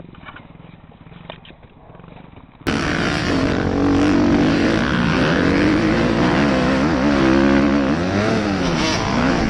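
Dirt bike engine running loud, its revs rising and falling unevenly. It starts suddenly about two and a half seconds in, after a quiet stretch.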